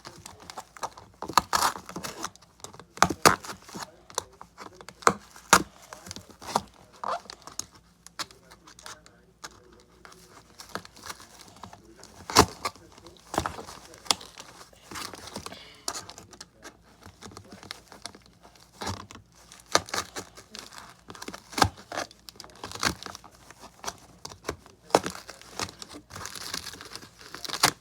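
Cardboard and tape being handled: irregular crinkling, rips and sharp clicks, a few every second.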